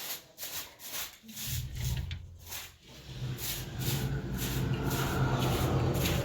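Repeated short scraping or rubbing strokes, about two a second. About a second and a half in, a steady low hum joins them and grows louder.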